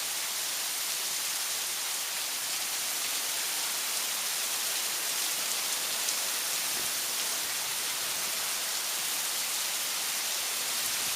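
Heavy rain coming down hard, a steady even rush of falling water.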